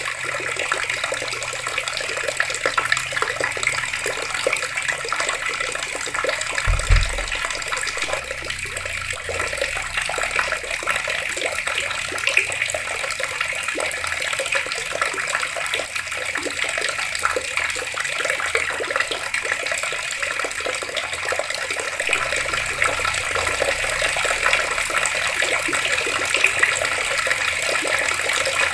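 Water taps running steadily, water splashing down in an even rush. A brief low thump sounds about seven seconds in.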